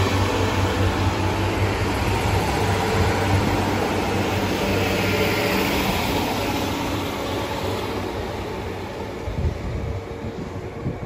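Diesel multiple unit train moving away along the line, its low engine hum and wheel rumble fading steadily as it recedes.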